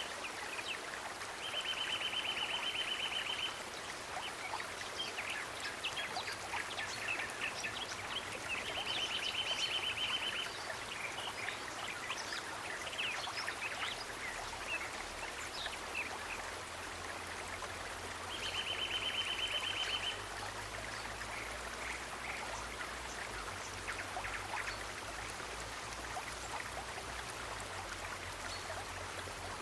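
Running water of a stream, with a high, rapid trill of about two seconds that comes three times.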